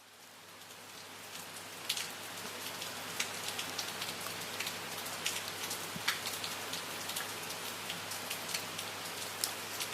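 Steady rain falling, an even hiss dotted with sharp individual drop impacts, fading in over the first couple of seconds.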